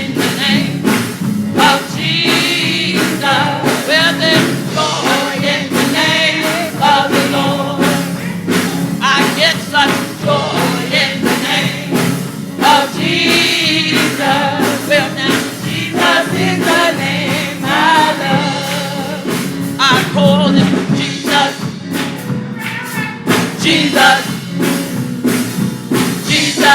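Gospel music with a choir or congregation singing, over a steady beat of drums and percussion.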